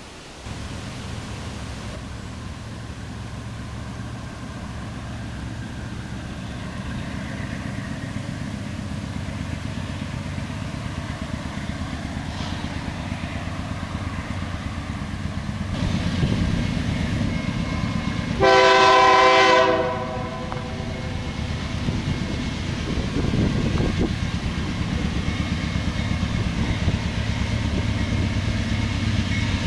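BNSF double-stack intermodal train approaching, its diesel locomotives rumbling louder and louder. About two-thirds of the way in there is one loud air-horn blast lasting about a second and a half, then the engine and wheel noise carries on.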